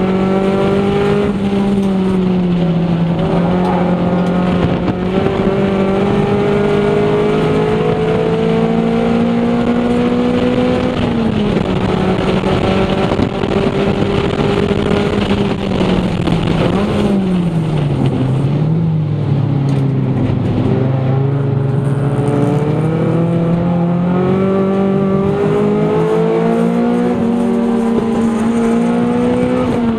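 Toyota Celica GT's 1.8-litre four-cylinder engine heard from inside the cabin, driven hard. The engine note climbs and falls repeatedly as the throttle is worked between corners. It sinks lowest a little past halfway, then rises again.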